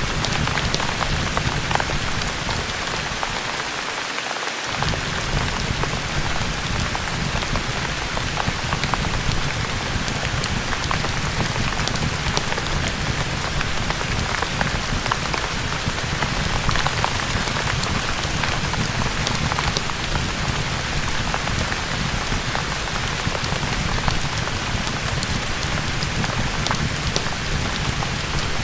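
Steady rain recording mixed with fireplace crackle: an even hiss dotted with many fine pops and drips. The low rumble drops out for about a second, about four seconds in.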